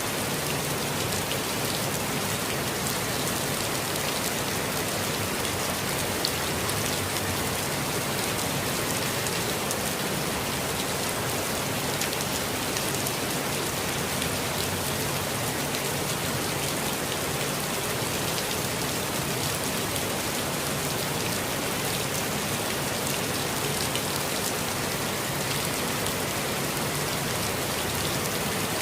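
Steady rainfall, a dense even hiss of drops with many fine individual drop ticks and no change in intensity.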